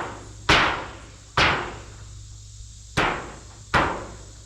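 Hammer blows knocking at a stuck wooden board to drive it loose: four hard strikes at uneven intervals, each ringing briefly before it dies away.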